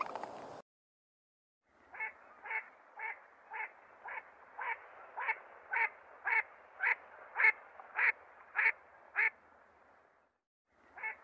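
Wood duck calling in a steady run of about fourteen short calls, about two a second, followed by two more calls near the end.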